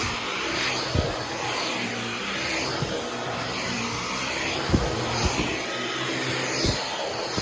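Dyson V15 Detect cordless stick vacuum running steadily, with a few sharp knocks in between.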